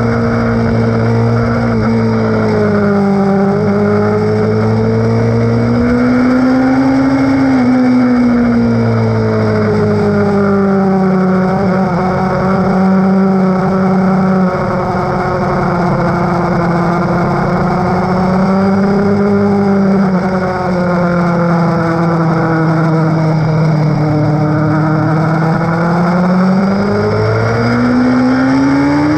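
Sport motorcycle's engine running hard on track, heard from on board. Its pitch drifts slowly up and down with the throttle through the corners and climbs near the end, over a steady rush of wind noise.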